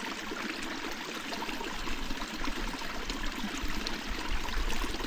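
Steady rush of running water, like a mountain stream, with small splashes throughout.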